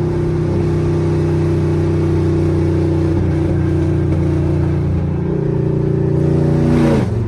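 V8 car engine running loud at steady revs under load, swelling slightly. Near the end the revs drop sharply.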